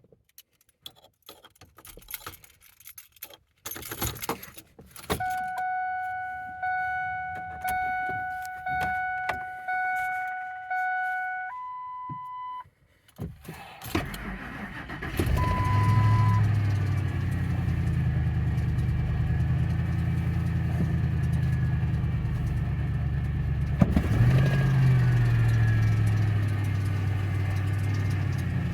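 Keys jangling and clicks, then the truck's warning chime pulsing about once a second, followed by a short steady tone. A 2002 Ford F-150's 4.6L Triton 2V V8 cranks briefly and catches about 15 s in on a 28°F cold start, then settles into a steady fast cold idle with a short rise and fall in engine speed near 24 s.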